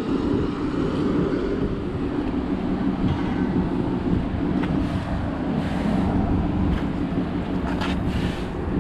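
BMW 335xi's twin-turbo N54 engine with a VRSF race exhaust, driving at a steady speed: a steady low drone of engine and road noise, with a few faint clicks near the end.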